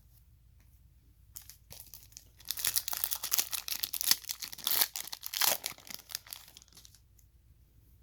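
A foil trading-card pack wrapper being torn open and crinkled, a dense crackling rustle that builds about a second and a half in and dies away near the end.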